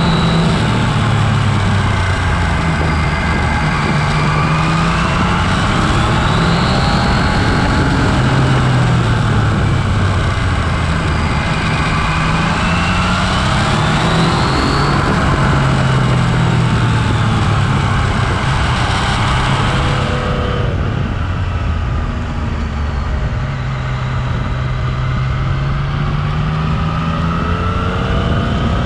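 Yamaha Tracer 900's three-cylinder engine on the move, its pitch rising and falling again and again as the throttle is opened out of bends and rolled off into the next, under steady wind rush on the microphone. The wind rush eases about two-thirds of the way through as the bike slows.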